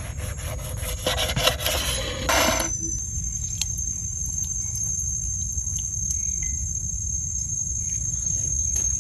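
Rapid rhythmic scraping strokes for about the first three seconds, then insects droning steadily on one high pitch over a low rumble.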